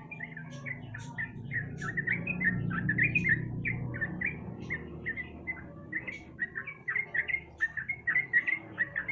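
Yellow-vented bulbul (trucukan) singing a fast run of short chirping notes, several a second, over a low steady hum.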